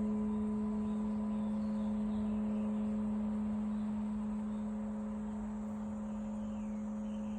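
Crystal singing bowl ringing on one steady deep tone with a few higher overtones, slowly fading. Faint bird chirps sound above it.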